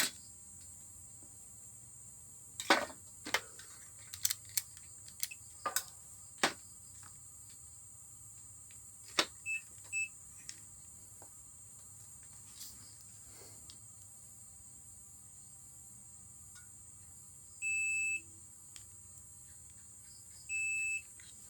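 Multimeter continuity beeper giving two steady half-second beeps near the end, with two faint short chirps around the middle: the drill's power cord reads as continuous, with no break. Before them come scattered sharp clicks and knocks of test probes and parts being handled.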